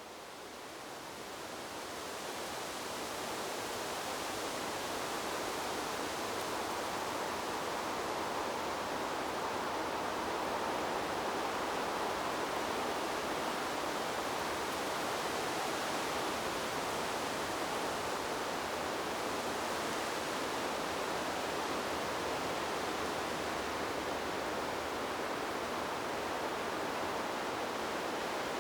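Steady, even rushing of wind through trees, fading in over the first few seconds and then holding level.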